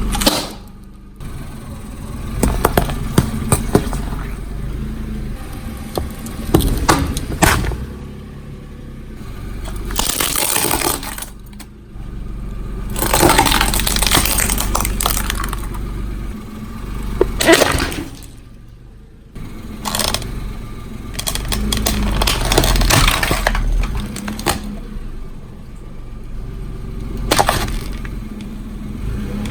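Objects being crushed under a car's tyre, one after another: sharp cracks and crunches and several longer bursts of crackling and splattering, over the low rumble of the rolling car. The sound cuts off abruptly a few times as one crush gives way to the next.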